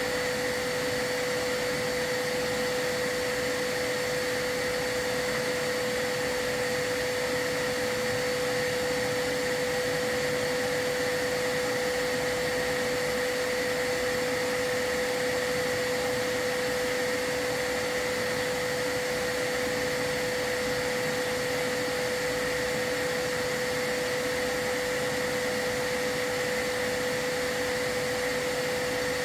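A chimney sweep's vacuum running steadily, its motor giving an unchanging whine over a rushing airflow, as it draws soot and dust from the fireplace.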